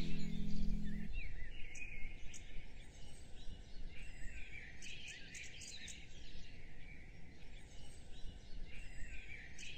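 A held guitar chord of the closing music stops about a second in. Then birds chirp in short repeated bursts over a steady low background noise.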